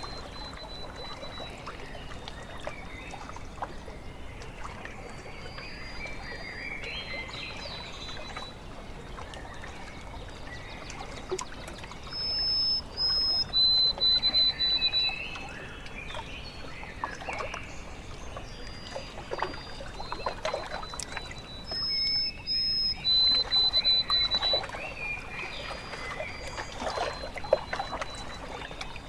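Water lapping and trickling at a lake shore with small splashes, and a bird singing short high whistled notes throughout. A louder phrase of high whistles comes about twelve seconds in and again about ten seconds later.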